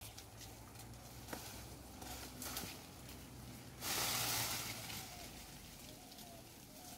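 Faint outdoor background with a few light ticks and a rustling hiss of about a second, roughly four seconds in.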